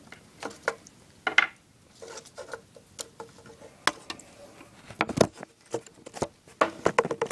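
Small plastic scale-model parts clicking, tapping and rattling as they are handled and pulled apart by hand: irregular light clicks, with a louder cluster of knocks about five seconds in.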